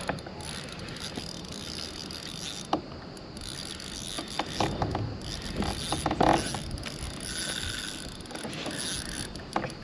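Fishing reel being worked against a big hooked fish: the reel cranks and ticks mechanically, with scattered sharp clicks.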